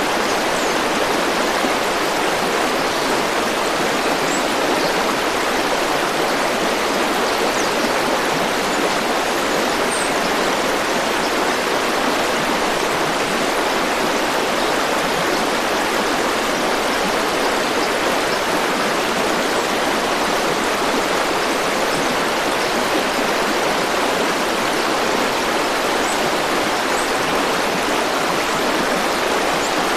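River water rushing steadily over stones, with an even, unbroken sound. A few faint, short high chirps come through now and then.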